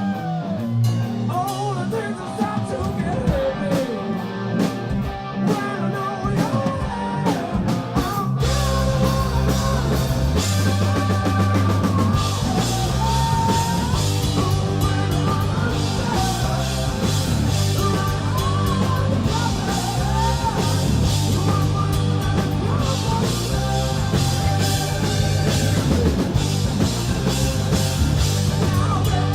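Live rock band playing loud: electric guitar leads at first, then the full band with drums, bass and singing comes in about eight seconds in.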